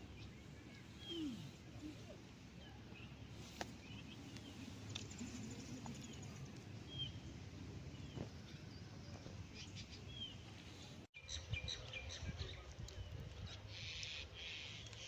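Scattered bird chirps and short calls over low, steady outdoor background noise, with a brief sudden dropout about eleven seconds in.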